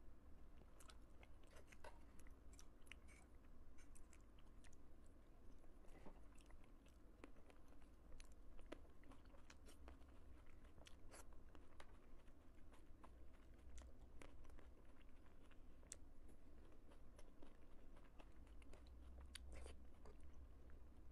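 Faint close-up chewing of gummy candy and jelly sweets, with many small sharp clicks scattered throughout.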